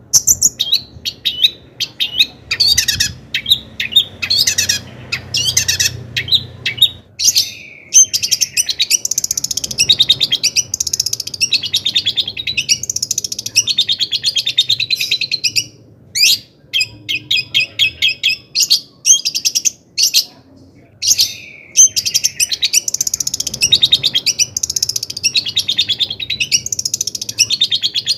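Long-tailed shrike (cendet) in full song: fast, chattering runs of rapid high notes, several seconds long, broken by short pauses.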